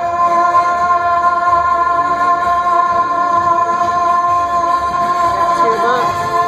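A singer holds the song's final note, one long steady note over the accompaniment, which stops just before the end.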